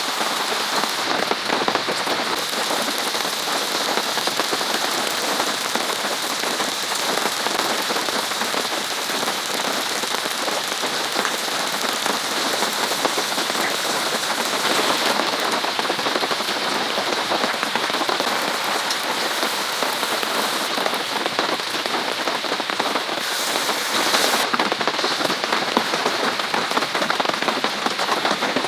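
Steady heavy rain falling, a dense, even patter of drops.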